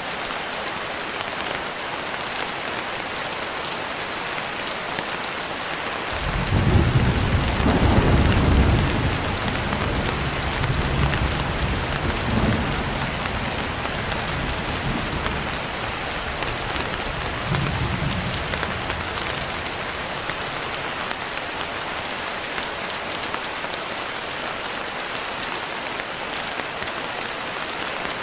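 Steady rain, with a long roll of thunder starting about six seconds in. The thunder is loudest at first, rumbles on with a few more swells, and fades away, leaving the rain alone.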